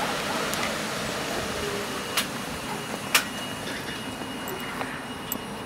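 Steady rushing noise from a passenger train standing at the platform, with two sharp clicks about two and three seconds in. A faint high steady tone comes in from about three seconds on.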